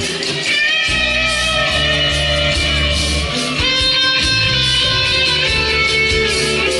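Live band playing an instrumental passage with no singing: guitar lines over shifting bass notes.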